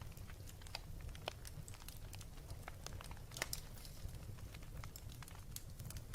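Wood fire burning with a low steady rumble and irregular sharp crackles and pops, two louder pops about a second and three and a half seconds in.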